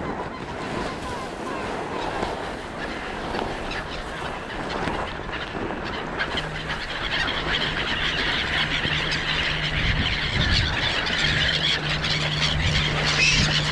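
Many birds calling at once, the chorus thickening and growing louder toward the end. A steady low mechanical hum sets in about halfway through.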